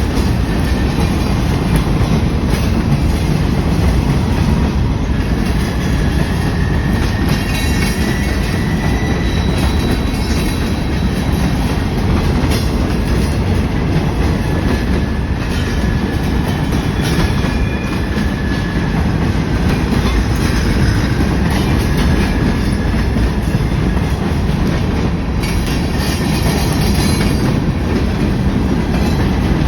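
Train cars rolling past on the track in a steady, loud rumble, with faint high-pitched wheel squeals coming and going.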